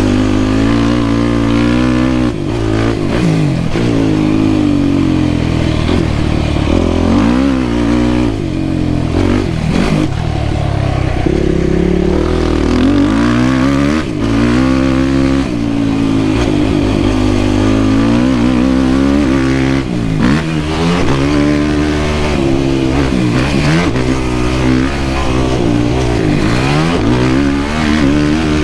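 Yamaha YFZ450R quad's single-cylinder four-stroke engine under hard riding, revving up and dropping off again and again as the throttle is opened and shut through the gears.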